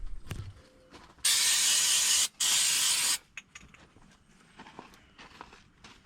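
Aerosol can of brake cleaner spraying in two bursts, the first about a second long and the second a little shorter, with a brief break between them. A few faint clicks and handling noises follow.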